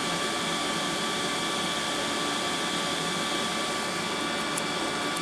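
Steady whirring air noise from a running electric motor, with a few constant whining tones over it.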